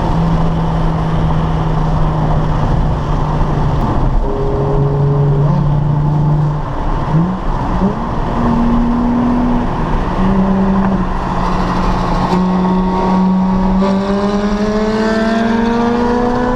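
Sports car engine running under way, with road and wind noise. The engine note holds steady with a few shifts in pitch, then rises steadily over the last couple of seconds as the car accelerates.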